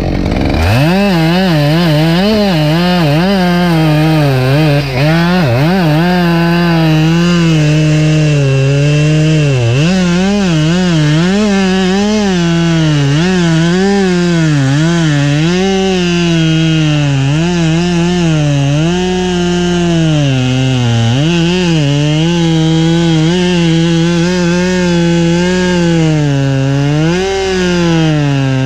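Husqvarna 572XP two-stroke chainsaw revving up from idle about half a second in, then cutting firewood. Its engine pitch dips and recovers over and over as the chain bites into the wood under load.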